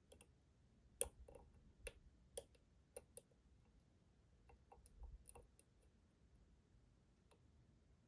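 Faint, irregular metallic clicks of a lock pick working the pins inside a Schlage Primus Everest cylinder, about a dozen over several seconds, with a soft low thump midway.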